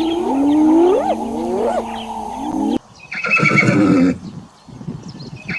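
Horse whinnying loudly for about a second, starting about three seconds in. It comes after an abrupt cut from a different clip of many overlapping calls gliding up and down.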